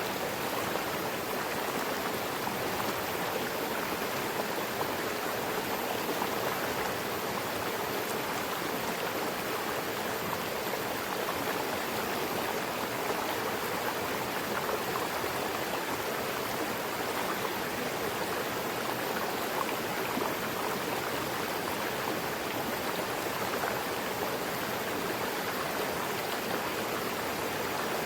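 Mountain river rushing over rocks, a steady, even rush of flowing water.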